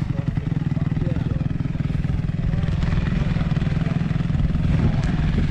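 Motocross bike engine running steadily at low revs with a fast, even pulse.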